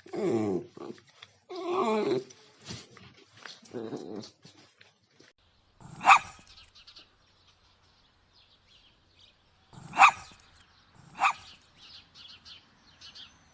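A dog vocalizing: drawn-out cries that waver and fall in pitch over the first few seconds, then three short, sharp barks, about 6, 10 and 11 seconds in.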